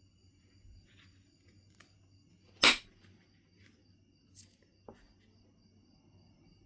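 Knife River flint being knapped: one sharp, loud strike on the stone about two and a half seconds in, with a few lighter clicks and taps before and after it.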